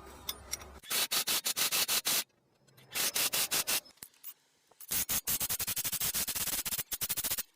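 Hand ratchet wrench clicking rapidly in four bursts of one to three seconds, with short pauses between, as bolts are run in during reassembly of a wheel bearing and hub.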